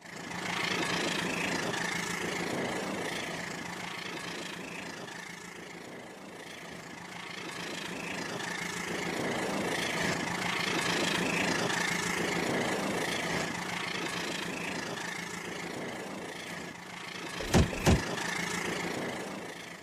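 Toy train running on its track: a steady electric motor whine over a rolling rumble that swells and fades every few seconds as it goes around. Two sharp clicks near the end.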